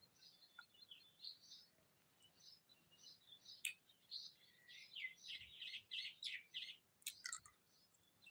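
Small birds chirping faintly: a quick string of short high notes, densest from about four to seven seconds in.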